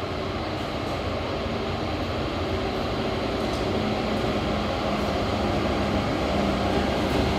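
A train running past at a station: a steady rumble that slowly grows louder, with a low steady hum coming in and out from about four seconds in.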